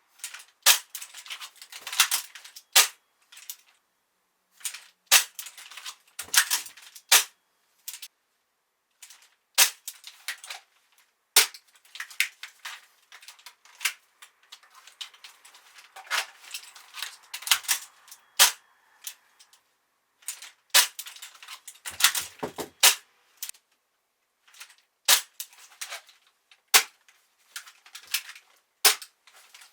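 Irregular sharp mechanical clicks and clacks from airsoft rifle and pistol handling during dry-fire reload and transition drills: magazines pulled from belt pouches and seated, with actions and triggers worked on a Tokyo Marui M4A1 MWS and a Tokyo Marui Glock 19. The clicks come singly and in quick clusters, with short silent pauses between drills.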